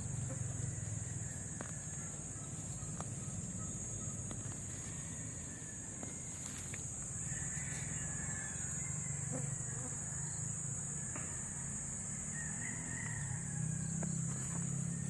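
Rural outdoor ambience: a steady high-pitched insect drone over a low steady hum, with a few scattered light clicks and faint chirps.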